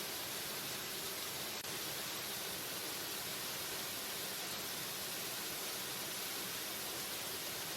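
Waterfall: a steady, even rush of falling water, with a momentary dip in level about a second and a half in.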